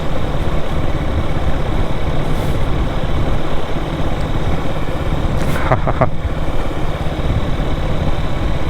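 Motorcycle on the move: steady engine and wind noise on the microphone, heaviest in the low end. About five and a half seconds in there is a brief pitched sound lasting about half a second.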